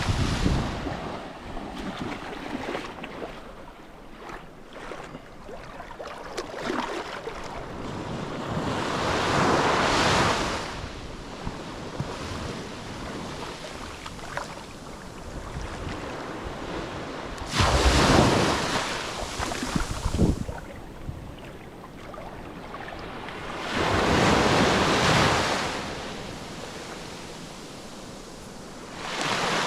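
Surf breaking on a steep beach: four big waves crash in, each a swelling rush of noise that fades as it washes back, with a steady wash of water between them. Wind buffets the microphone.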